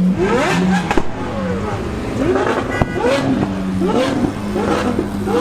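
A sports car's engine running with a steady low note, its pitch rising and falling in short swells, with voices around it.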